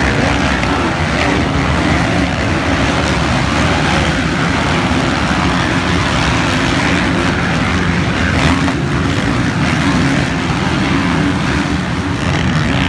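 Motocross bike engines running steadily, their pitch wavering a little.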